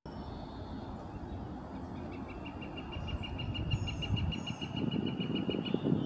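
A bird calling: a long, rapid series of even notes, about seven a second, starting about two seconds in and stopping just before the end. Under it runs the steady low rumble of road traffic.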